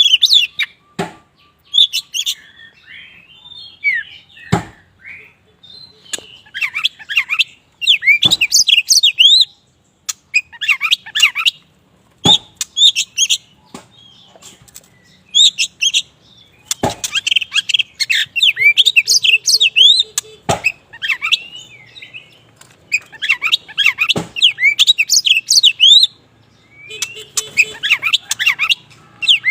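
Kacer wulung (black-plumaged oriental magpie-robin) singing: repeated phrases of rapid, varied high whistles and trills, each a second or two long, separated by short pauses. Sharp single clicks punctuate the song several times.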